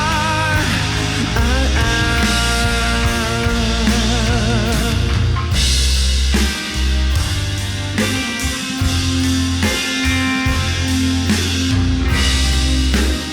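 Rock band playing an instrumental passage of a rock ballad, with strong bass and drums under held lead notes that waver with heavy vibrato in the first few seconds.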